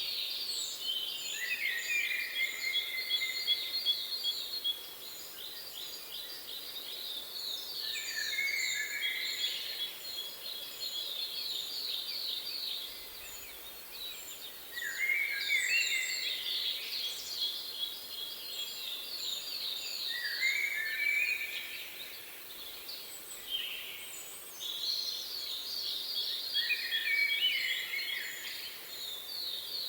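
Songbirds singing: rapid chirping trills and lower warbled phrases that come in bursts every five or six seconds, with faint high peeps between them.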